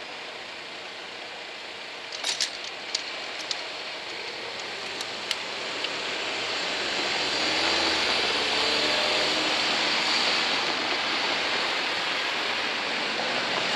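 ICMm intercity electric train passing over a level crossing. A few sharp clicks come about two to six seconds in, then the wheel-and-rail rush builds and holds loud from about eight seconds on.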